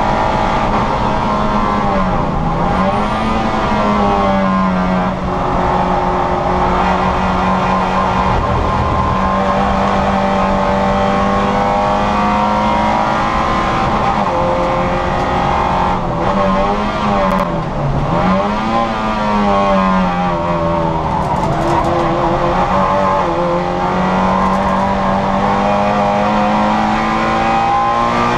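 Citroën Saxo VTR's four-cylinder engine running hard at high revs on track, mostly at a steady pitch. The revs dip and climb again briefly about three seconds in, and twice more between about 16 and 19 seconds in, as the driver lifts off and changes gear.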